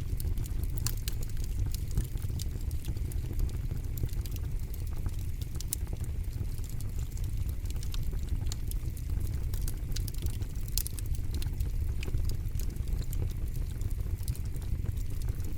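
Campfire burning: frequent irregular sharp crackles and pops of burning wood over a steady low rumble.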